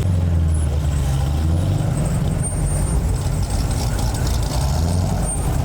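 Car engines running with a steady, loud low rumble from the exhaust.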